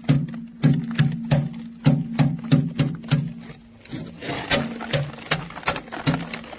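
Sorghum heads being threshed: regular sharp knocks about three a second, with a short rattling hiss about four seconds in.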